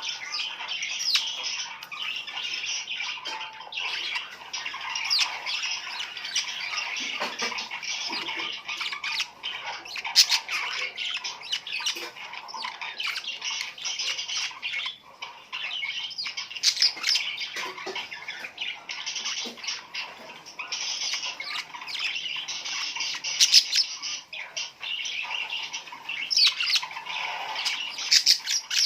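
A flock of birds chirping and calling continuously, many short calls overlapping.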